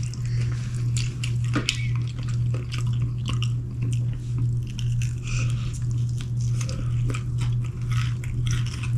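Close-up eating sounds: biting and chewing saucy fried chicken wings, with many short wet smacks and crunches, over a steady low hum.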